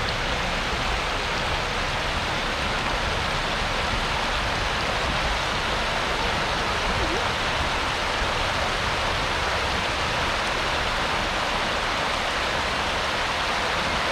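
Fast floodwater of a swollen river rushing past in a steady, even roar of water.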